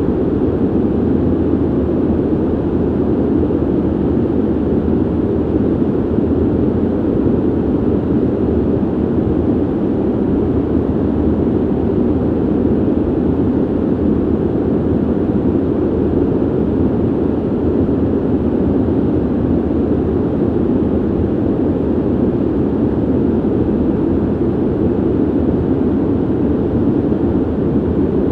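Steady ventilation noise: an even, low rush of air with no tones or changes.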